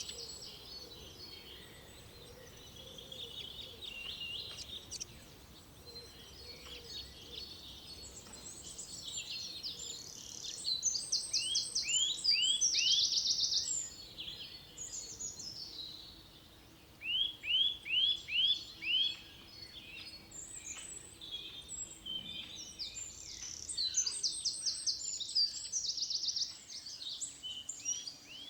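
Several forest birds singing and calling over one another, with a few quick runs of repeated sweeping notes in the middle.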